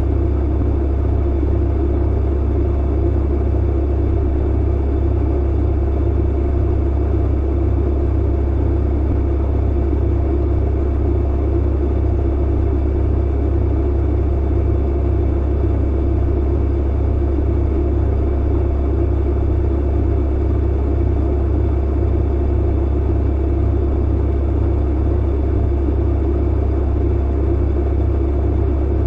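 Clothes dryer running: a steady, unchanging low hum and rumble.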